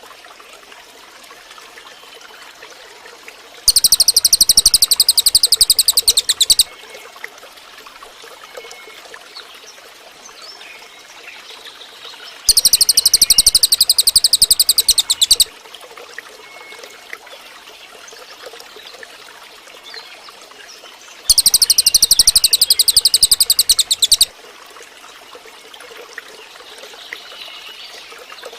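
Cililin bird singing a loud, very rapid high trill of about three seconds, three times, about nine seconds apart. Fainter chirps and a steady hiss fill the gaps between trills.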